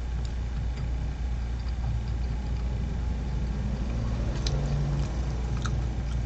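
Steady low hum and rumble with a few soft clicks.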